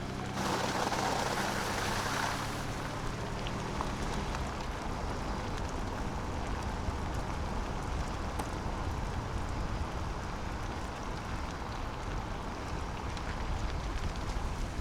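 Truck driving on a snowy canyon road: a steady engine hum in the first few seconds, then steady road and tyre noise.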